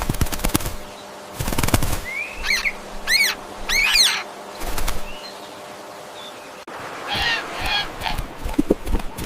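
Farm poultry: two bouts of wing flapping, then four short calls that rise and fall in pitch, and a cluster of harsher calls near the end.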